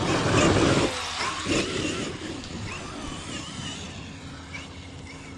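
Large electric RC truck on Sledgehammer tires running on a dirt track. There is a loud rush of tire and drivetrain noise in the first second, a shorter one about a second and a half in, then quieter running with a faint wavering motor whine.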